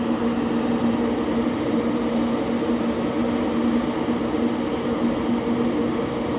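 Steady hum and rumble of an electric commuter train, with a constant low tone and its overtone holding unchanged.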